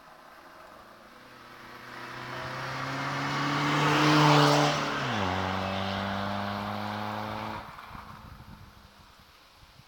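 Peugeot 306 HDi turbodiesel with a straight-through exhaust, de-catted and without a back box, driving past at steady speed. The engine note grows louder as the car approaches, peaks at about four seconds, then drops in pitch as it passes and recedes. It falls away sharply near the end.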